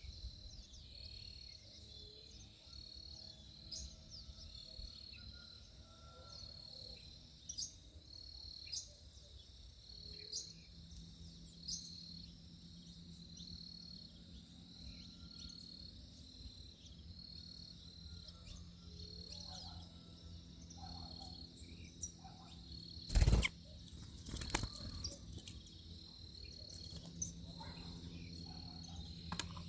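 Backyard ambience: an insect trilling in steady, evenly repeating pulses, with scattered short bird chirps. About two-thirds of the way through comes one loud thump, then a smaller one.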